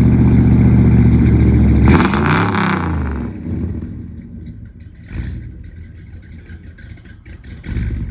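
Chevy 454 big-block V8 with an aftermarket cam, held at high revs just after a cold start, then dropping back to idle about two seconds in with a brief rattle as the revs fall. It settles into a quieter, uneven idle with two short blips of the throttle.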